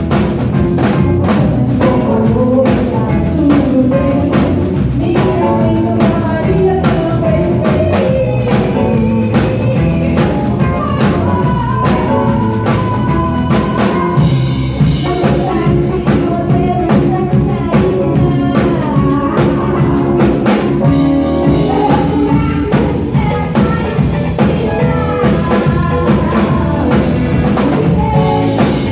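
Live rock band playing a song, with drum kit, instruments and a singing voice.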